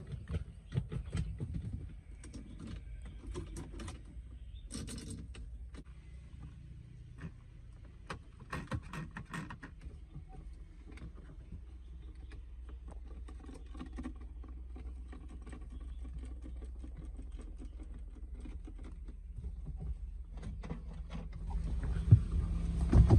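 A low, steady mechanical hum with scattered clicks and knocks over it, growing louder near the end.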